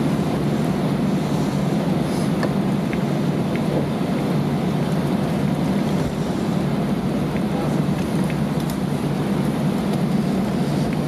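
Steady cabin noise aboard an Airbus A320 on the ground after landing: engines at idle thrust and cabin air rumbling evenly, with a few faint ticks.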